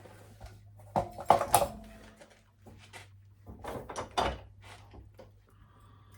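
Metal parts and tools being handled and set down: two clusters of clanks and knocks, the first with a brief metallic ring.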